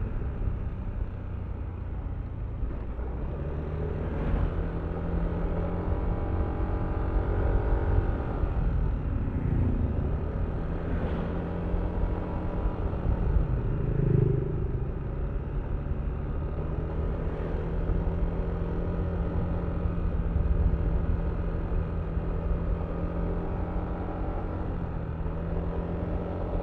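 Yamaha Aerox V3 scooter's single-cylinder 155 cc engine running under way, its pitch rising and falling with the throttle over low wind rumble. There is a brief louder swell about halfway through.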